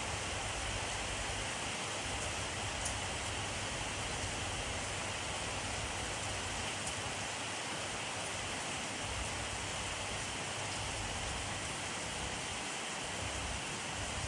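Steady rainfall, a dense even hiss of rain with a few faint drop ticks here and there.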